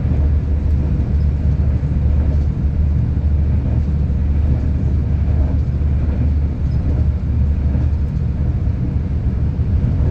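Steady low rumble of a V/Line passenger train running along the line, heard from inside the carriage.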